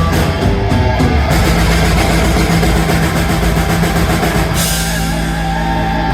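Live rock band, loud drums and cymbals over a held distorted guitar and bass chord, in the big ending of a song. The cymbal wash drops away about four and a half seconds in while the low chord rings on.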